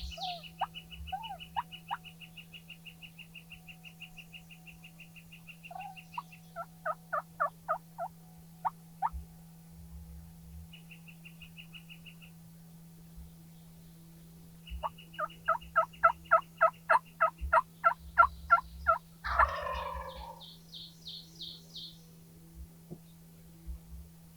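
Wild turkeys calling: a short run of yelps, then a longer, loud series of about fourteen evenly spaced yelps, cut off by a single rattling gobble about 19 seconds in. Fast, high songbird trills come at the start and again just after the gobble.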